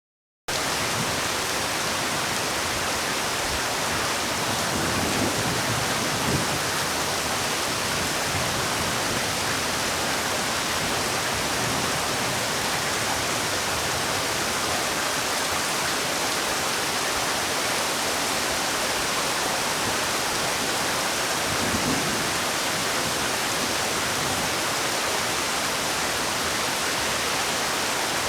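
Steady rainfall, an even hiss that cuts in suddenly about half a second in, with a couple of louder spatters around six seconds and again around twenty-two seconds in.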